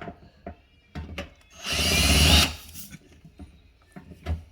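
Power drill running in one short burst of under a second, about two seconds in, with a whine, while backing out a dishwasher mounting screw. Short knocks and clicks come before and after the burst.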